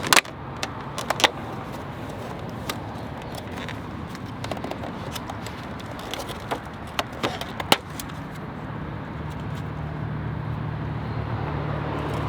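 Road traffic: a steady rush of passing vehicles, with a low engine hum growing louder from about eight seconds in. Scattered short clicks and ticks sound over it.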